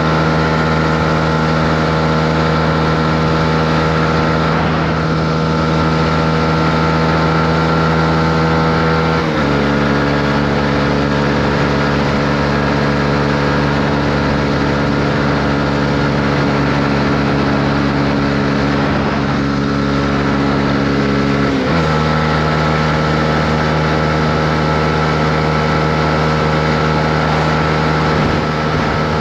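Honda CB125R motorcycle's single-cylinder engine running at steady revs while riding. Its note drops abruptly about nine seconds in and rises again about twenty-two seconds in.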